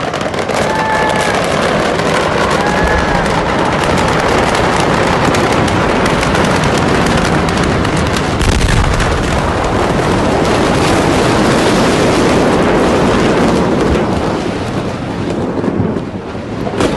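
Fireworks burning in a large fire, popping and crackling rapidly and without a break, with a few short whistles in the first seconds and a deeper boom about halfway through.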